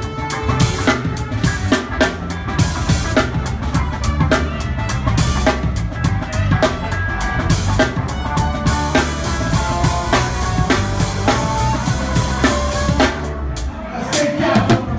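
Live rock band playing, heard close to the drum kit: snare, bass drum and cymbal strikes over bass and melodic instrument lines. The drumming thins out briefly near the end.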